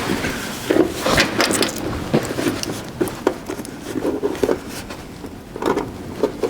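A bundle of wires and a rubber boot being worked through a small grommet hole in a car door: irregular rubbing and scraping with scattered light clicks and knocks.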